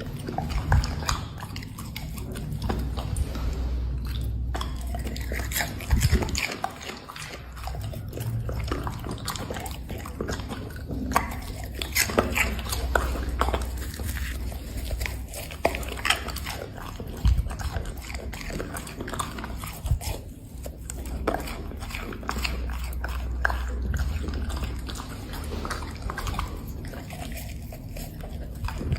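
Black Labrador chewing seafood treats, with irregular sharp crunches as it bites down.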